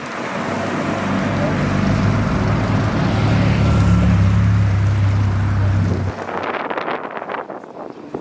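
A car engine running with a deep, steady note. It grows louder for about four seconds and stops abruptly about six seconds in, over wind noise on the microphone.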